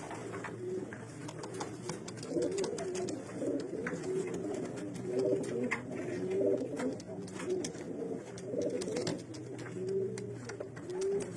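Several racing pigeons cooing, their low warbling coos overlapping and repeating every second or two, with scattered light clicks among them.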